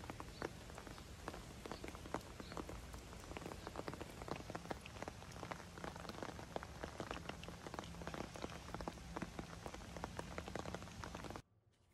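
Steady rain falling, a dense patter of individual drops; it stops abruptly near the end.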